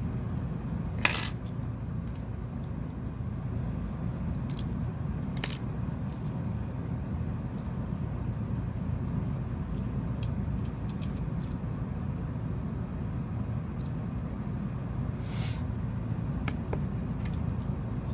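Scattered sharp clicks and taps of small tools and phone parts being handled while a Samsung Galaxy S8 is reassembled, the loudest about a second in, over a steady low rumble.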